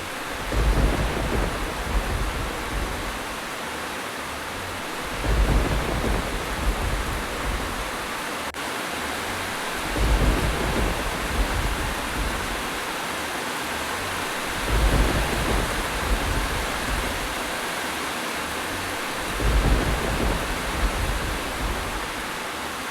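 Steady heavy rain hissing, with a low rumble of thunder swelling up about every five seconds, five times, evenly spaced.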